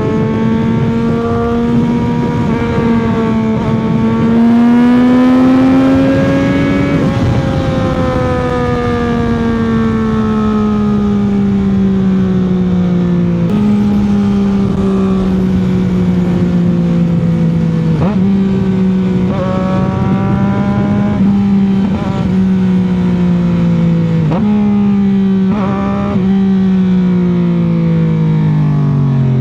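CFMOTO 675's inline three-cylinder engine running under way. Its revs climb for about seven seconds, then ease down slowly, jumping back up in several quick steps. Near the end the revs fall away sharply.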